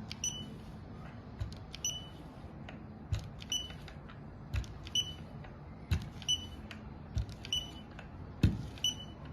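Machine working through repeated cycles: short high electronic beeps about once a second, each with a click, and dull low thuds in between, over a steady low hum. This fits a manual expiry-date coding machine stamping item after item.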